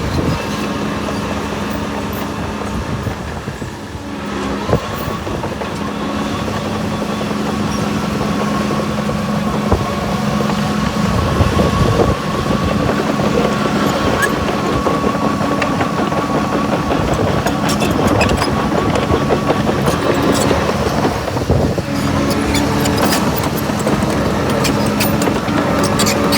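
Heavy diesel earthmoving machine running steadily under load, with a steady higher whine through the middle and a quick run of clanks near the end.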